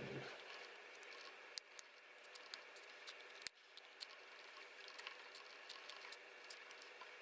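Scattered small clicks and ticks of tiny parts and tools being handled while a Canon PowerShot S110 compact camera is taken apart for a lens-error repair, over a faint steady hiss. The sharpest clicks come about a second and a half in, just after, and midway.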